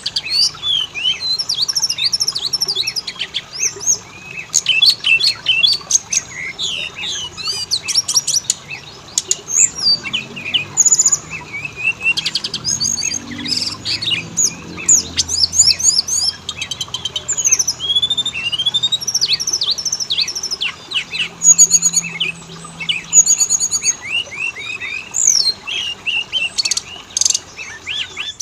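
Oriental magpie-robin (kacer) song: a dense, unbroken run of rapid, varied whistles, chirps and sweeping notes, with short harsh calls mixed in. This is lure song of a male and female kacer, used to set a caged bird singing.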